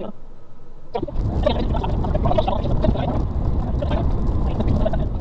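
Cab noise of a Suzuki Carry kei truck driving off-road: its 660cc engine running under the rattle and crunch of tyres over rough ground. It gets louder about a second in.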